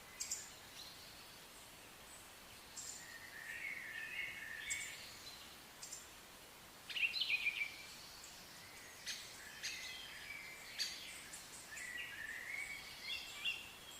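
Songbirds singing and calling: short chirped phrases and sharp high notes come and go throughout, with a quick rattling run of notes about seven seconds in, over a faint steady hiss.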